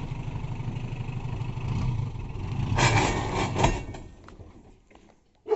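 Hindustan Ambassador's Stride diesel engine idling with a steady, pulsing rumble. A louder rush comes about three seconds in, then the sound fades away.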